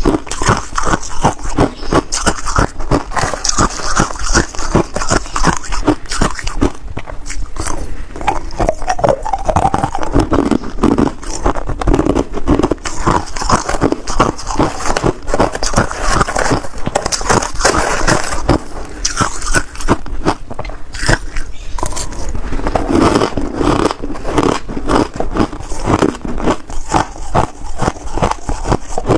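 Ice being bitten and chewed close to the microphone: a dense, continuous run of sharp crunches and cracks.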